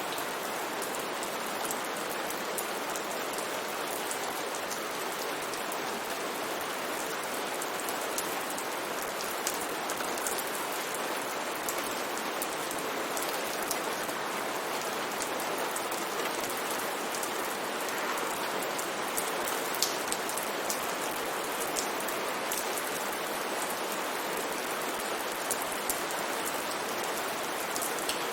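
Steady rain falling, an even hiss with many small drip and droplet ticks scattered through it.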